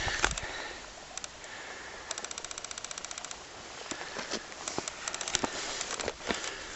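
Strong wind buffeting the microphone, with a fast rattle of sharp clicks, about fifteen a second, starting about two seconds in, and scattered clicks and pops later on.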